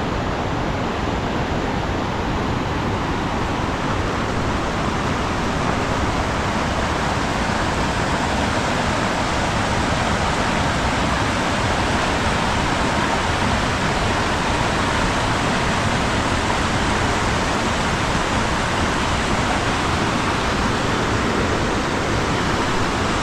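Mountain river rushing steadily over rocks and boulders: a loud, even, unbroken roar of water.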